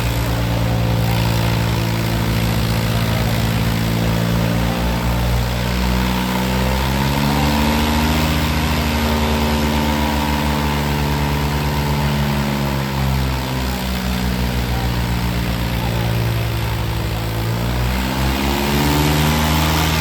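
Diesel tractor engines running hard under load in a tug-of-war pull. The engine note holds steady, rises about a third of the way in, sags through the later middle and climbs again near the end as the revs change.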